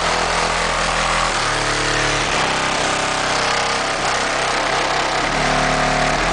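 Car engine running at idle, its steady tone stepping to a different engine speed a few times, as if the throttle is being blipped and held.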